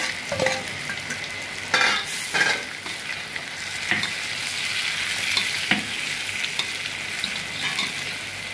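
Chicken pieces frying in oil in a wok with a steady sizzle, stirred with a spatula that now and then scrapes and knocks against the pan.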